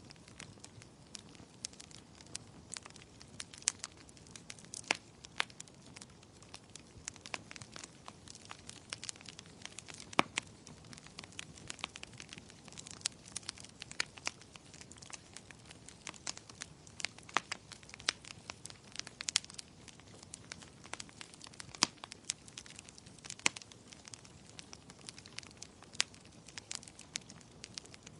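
Wood fire burning in a fireplace, crackling with many sharp, irregular pops and snaps over a soft low hiss.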